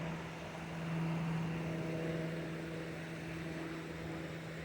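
Steady low mechanical hum with a constant pitch, like a motor or engine running, over a faint rumbling background.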